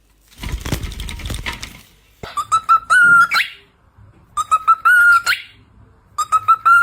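A parrot whistling the same phrase three times: a quick run of short notes, then a held note that ends in a sharp upward sweep. A brief rustling noise comes just before the first phrase.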